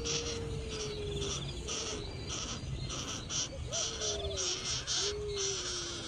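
High, pulsing insect-like chirring, with several low drawn-out calls that fall slightly in pitch.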